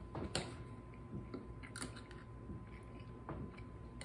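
A person chewing a mouthful of oil-packed sardine: faint wet chewing with a few small clicks.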